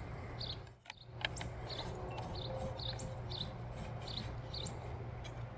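A bird calling in short, high chirps repeated about every half second, over a steady low rumble, with a few light clicks about a second in.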